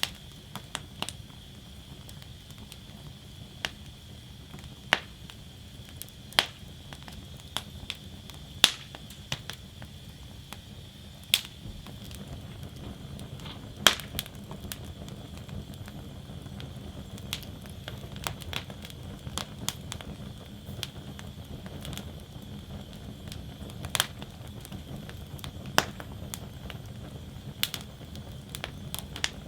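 Wood fire burning in an outdoor fire basket: irregular sharp crackles and pops, some much louder than others, over a steady low rumble of flame.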